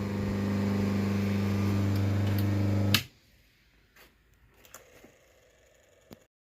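Steady hum of a workshop machine's electric motor that cuts off abruptly about three seconds in, leaving near silence with a few faint clicks.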